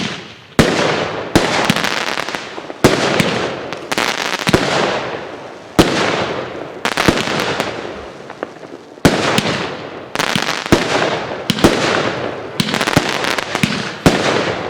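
A 19-shot consumer fireworks cake, the House of Lightning, firing shot after shot, about one every second. Each sharp bang is followed by a dense crackle as the silver palm breaks with crackling effects.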